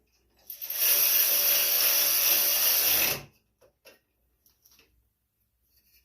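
A power drill-driver runs steadily for about two and a half seconds, starting about half a second in and stopping suddenly, with faint clicks of parts being handled after it.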